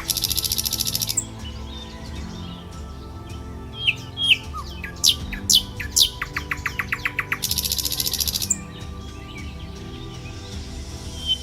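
Songbirds calling, with rapid trills and sharp chirps that sweep downward in pitch, repeated in clusters, over soft background music.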